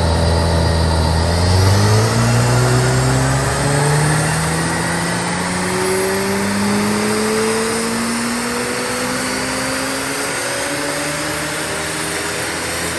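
Stage 1 tuned Audi S4 B9 engine pulling hard under load in one long unbroken run, its pitch climbing steadily for over ten seconds, as on a dyno pull. A faint high whine rises with it.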